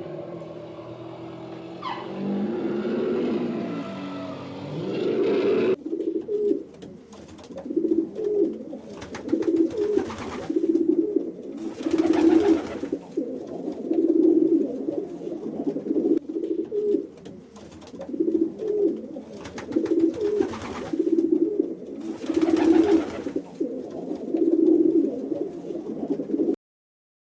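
A bird calling in low, repeated notes, one call every second or two. A different, steadier sound fills the first few seconds before a cut.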